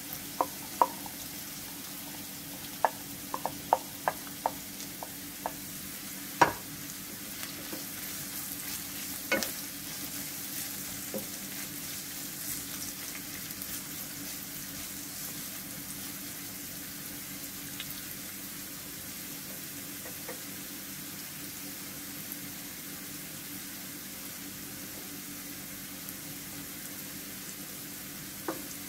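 Carrot and onion strips sizzling in oil in a non-stick wok as a wooden spatula stirs them. In the first several seconds there is a run of sharp taps of the spatula against the plate and pan, the loudest about six seconds in, with a few more near the end.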